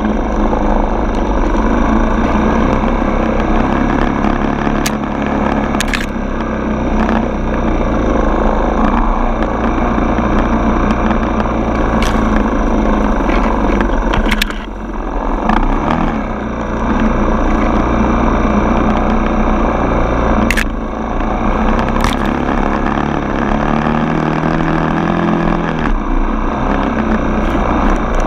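Dirt bike engine running while riding a trail, revs rising and falling, with two brief drops in power around the middle. A few sharp clicks punctuate it.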